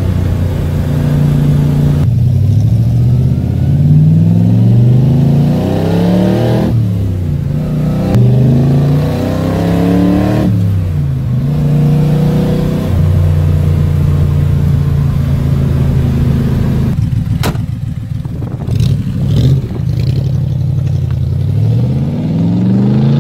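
1965 Corvette Sting Ray's V8 engine pulling through the gears of its manual gearbox, heard from the cabin: the engine note rises, drops at a shift, rises again, drops at a second shift, then holds steady at cruising speed. A few sharp clicks come about three-quarters of the way in, and near the end the engine note climbs again as the car accelerates away.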